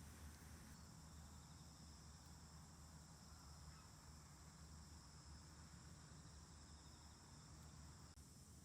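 Faint, steady chorus of autumn insects such as crickets, which comes in about a second in and cuts off near the end, over a low steady hum.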